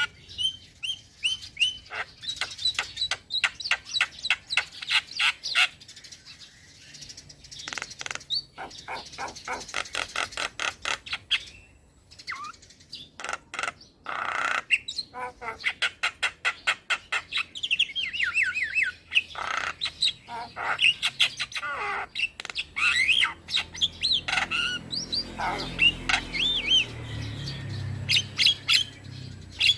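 Young male Javan myna singing loudly and without pause. The song is a varied run of rapid repeated chattering notes, clicks and sliding whistles.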